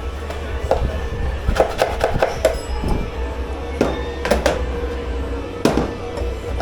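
Dishes and kitchenware being handled in a dish pit, clattering and knocking in quick irregular clusters, some knocks ringing briefly. Underneath is a steady hum and low rumble.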